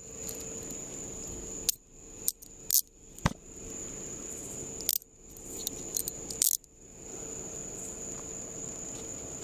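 Metal handcuffs being put on: a handful of sharp metallic clicks and clinks spread over several seconds as the cuffs are snapped and ratcheted shut.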